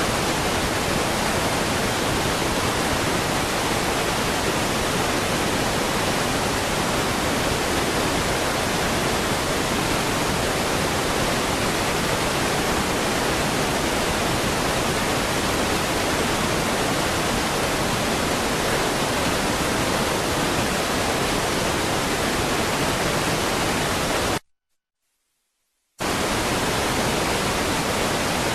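Steady, even rushing hiss that cuts off abruptly to silence about 24 seconds in and starts again a second and a half later.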